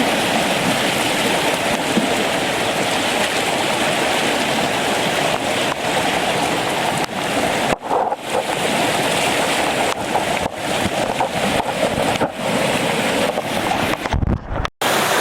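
Flooded, fast-running creek rushing steadily and loudly, swollen by heavy rain, with a brief break in the sound near the end.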